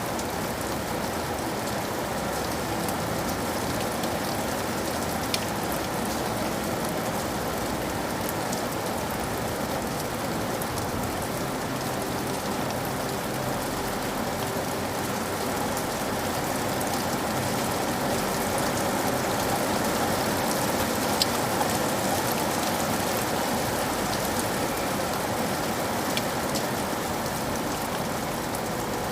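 Steady rain falling, an even hiss of drops with occasional separate drop ticks.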